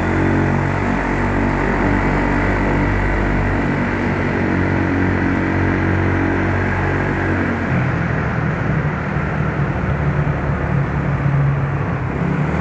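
Yamaha Mio Soul scooter engine running while being ridden, a steady drone whose pitch shifts about two-thirds of the way through, with road and wind noise.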